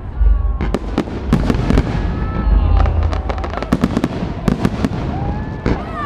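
Fireworks display bursting overhead: a rapid string of sharp bangs and crackles over a deep, continuous booming rumble.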